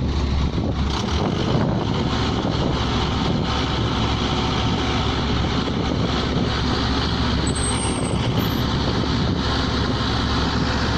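Pneumatic drilling rig running with a steady, dense machine noise, and a brief high whistle about two-thirds of the way through.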